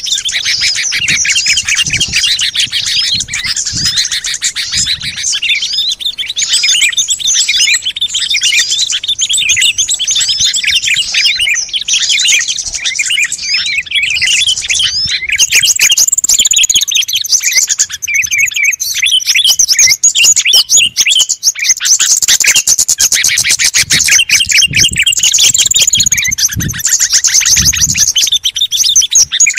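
Dense chorus of many small songbirds chirping and twittering over one another without a break, a bird-lure recording. It grows busier and louder about halfway through, with more high, thin notes.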